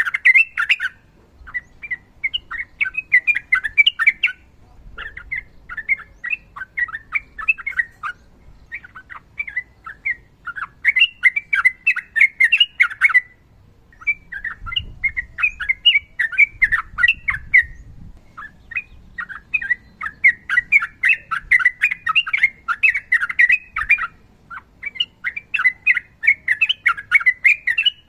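Sooty-headed bulbul (trucukan) singing long, rapid runs of notes, phrase after phrase of one to three seconds with short pauses between.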